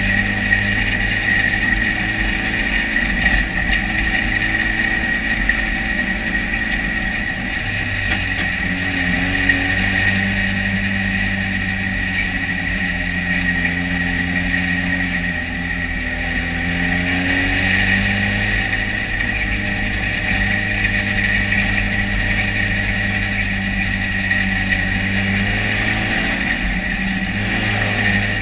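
Dirt-track race car engine heard from inside its cockpit, running steadily at part throttle, its pitch rising and falling gently as the car circles the track.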